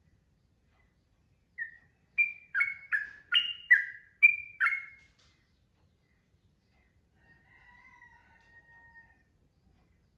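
Sooty-headed bulbul (trucukan) singing. One short note is followed by a quick phrase of about eight loud notes that jump between higher and lower pitches, and a few seconds later by a faint, level whistled note.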